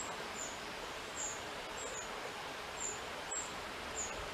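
Small birds calling: short, very high, thin chirps repeated at irregular intervals, over a soft steady hiss of breeze.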